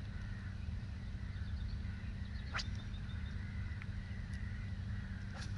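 Quiet waterside ambience: faint, wavering calls of distant birds over a steady low rumble, with two short sharp clicks, one about halfway through and one near the end.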